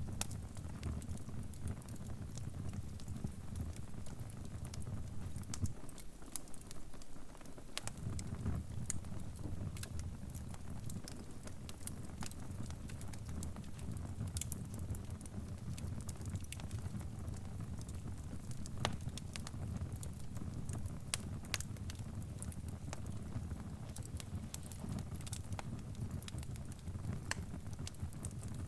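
Crackling fire: a steady low rumble of flames with scattered sharp pops and snaps throughout. The rumble briefly drops away for about two seconds around six seconds in.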